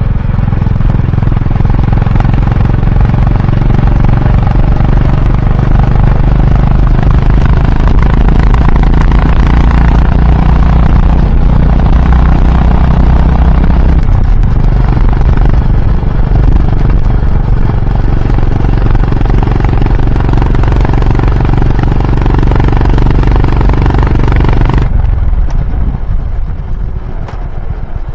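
Honda H'ness CB350's single-cylinder engine and exhaust running under way with a steady low rumble. Near the end it quietens and dulls.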